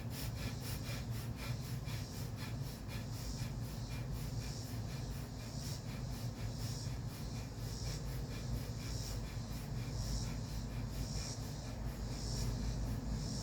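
Rapid, forceful breathing in and out through the nose in a fast, even rhythm: bhastrika pranayama (bellows breath), with inhales and exhales both pushed.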